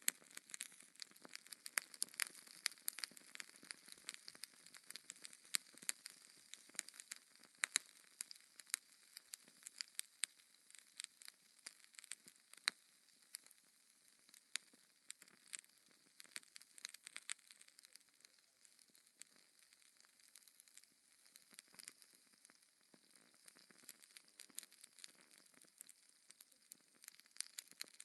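Wood fire in a fireplace crackling: irregular sharp pops and snaps over a faint hiss, busier in the first half.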